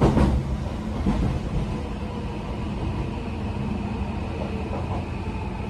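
Interior running sound of a Tokyo Metro 18000 series electric train approaching its stop: a steady rumble of wheels on rail with a faint whine, and a sharp knock from the rails right at the start.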